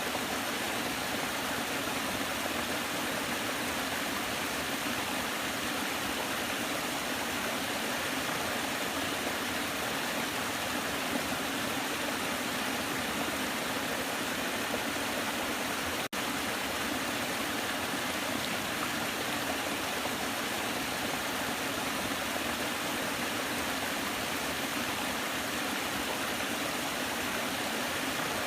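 Waterfall: water falling and rushing in an even, steady wash, with a split-second break in the sound about halfway through.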